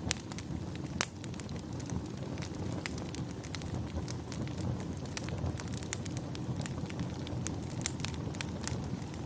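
Wood fire burning in a fireplace: a steady low rumble of flames with frequent sharp, irregular crackles and pops, a couple of louder pops about a second in.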